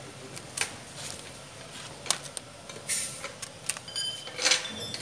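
Steel core laminations of a transformer welding machine clicking and clinking as they are pulled out of the core, about half a dozen sharp metallic clicks spread over several seconds.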